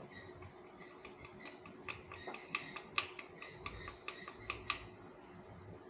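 A quick, irregular run of light clicks and taps: a measuring spoon knocking and scraping in a spice container as caked ground nutmeg is scooped out.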